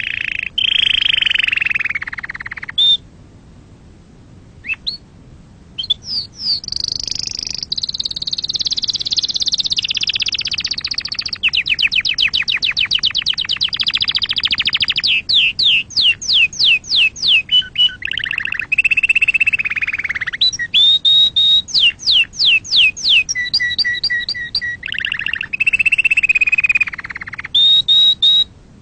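Domestic canary singing a long, varied song of rapid trills and runs of repeated sweeping notes, with a short break a few seconds in.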